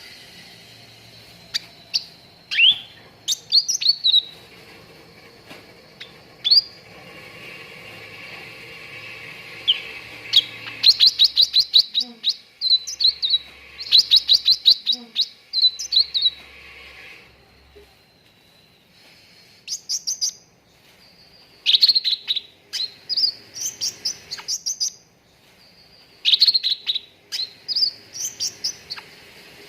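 Cucak ranting songbird singing in bursts of rapid chirps and quick whistled phrases, with short pauses between them. This is a lure recording of the kind played to cagebirds to get them singing.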